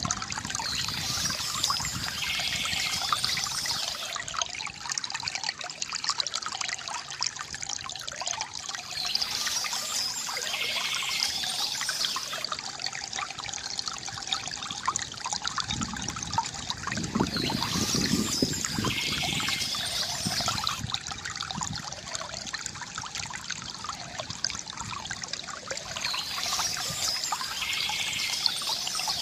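River water gurgling and trickling steadily, with birds chirping softly over it in bursts that return about every eight or nine seconds in the same pattern.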